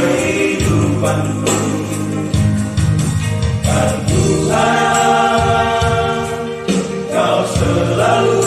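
Vocal group singing a Christian worship song in harmony, holding long notes over an accompaniment with a steady bass line and a beat.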